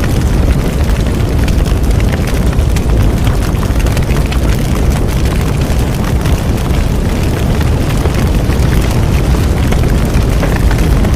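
Bonfire burning, a steady deep rumble of flames with constant fine crackling and small pops.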